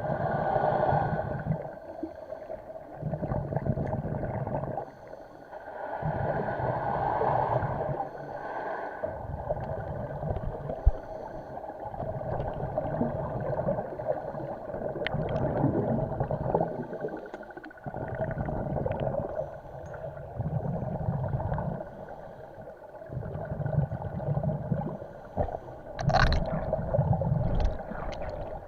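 Scuba regulator breathing underwater: repeated surges of exhaled bubbles gurgling, each a second or two long, with quieter inhale gaps between them.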